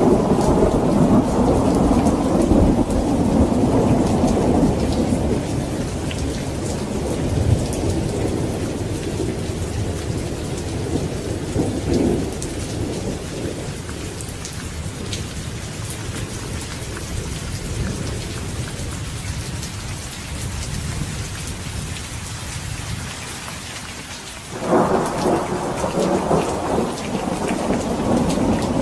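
Steady rain falling with rolling thunder. A long rumble fades away over the first few seconds and a smaller rumble swells about halfway through. Near the end a sudden loud thunderclap breaks in and keeps rolling.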